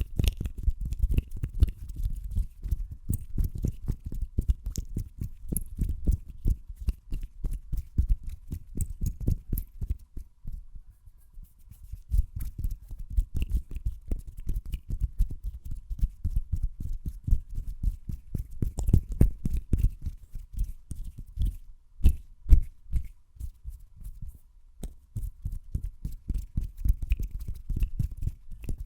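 Fast, dense hand sounds very close to a microphone: quick strokes of the hands in rapid succession, pausing briefly about ten seconds in and twice more past twenty seconds.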